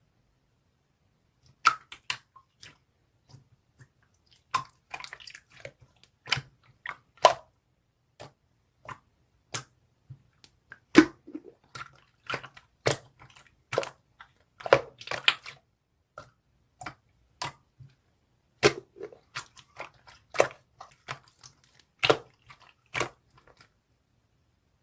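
Red slime being pressed and squished by hand, giving irregular wet clicks and sticky pops, a few louder than the rest.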